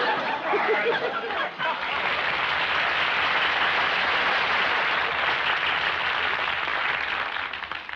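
Studio audience laughing and applauding, a steady wash of clapping that eases off near the end.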